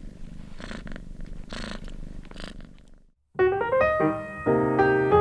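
Kitten purring close up, with a breathy surge roughly once a second. It stops about three seconds in, and louder piano music takes over.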